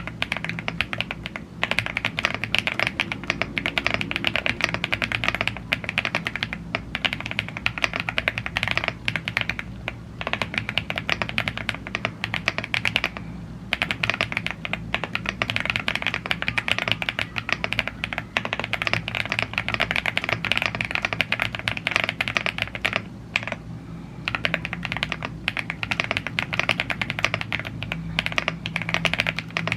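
Continuous typing on a YUNZII AL75 gasket-mounted aluminum mechanical keyboard with Blue Grey tactile switches and double-shot PBT keycaps: a dense run of keystroke clacks with a few brief pauses, over a faint low steady hum.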